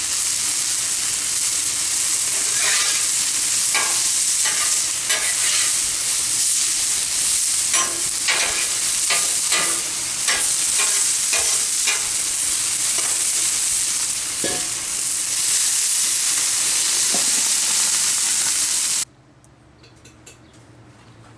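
Burger dogs and onions sizzling loudly on a Blackstone flat-top griddle, with scattered metal clicks and scrapes on the cooktop from turning them. The sizzle cuts off suddenly near the end, leaving near quiet.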